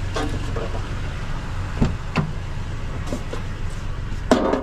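Truck engine running steadily with a low hum, with a few light knocks about two seconds in and a louder clatter near the end.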